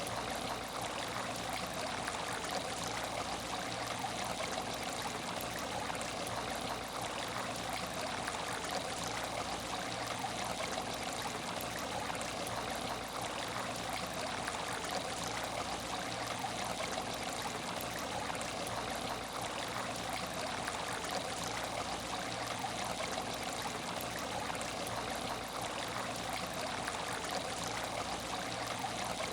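Water in an aquarium tank trickling steadily and without a break, with a faint low hum beneath it.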